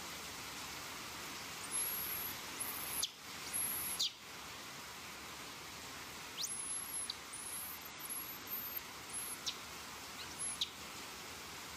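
Heavy rain falling steadily, a constant hiss. Over it come short, very high chirps that sweep downward, a cluster about two seconds in and several more from about six seconds on.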